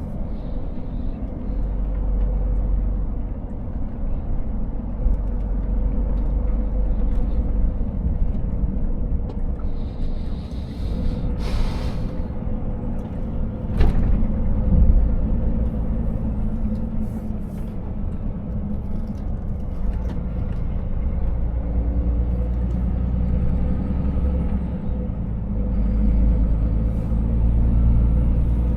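Scania 500 S truck driving: the diesel engine and road noise make a low, steady rumble inside the cab. Partway through there is a brief hiss of air, followed shortly by a single sharp click.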